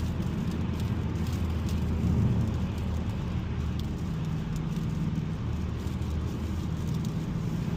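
Steady in-cabin driving noise from a 2021 Mazda 3 Turbo AWD cruising on a wet, snowy road: tyre and road rumble with a low engine hum underneath.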